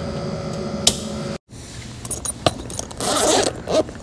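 A steady hum that cuts off abruptly about a second and a half in, followed by scattered clicks and a short scraping rustle as tools and parts are handled.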